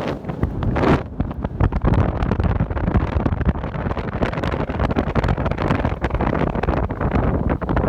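Wind buffeting the microphone: a loud, uneven, fluttering rumble that rises and falls in gusts.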